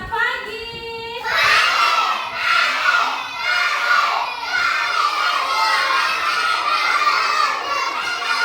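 A class of young children shouting and chattering all at once, many voices overlapping. It starts about a second in.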